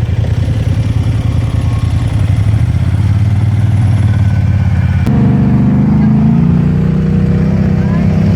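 ATV engine running steadily under way, then changing abruptly about five seconds in to a higher note that climbs as it revs up.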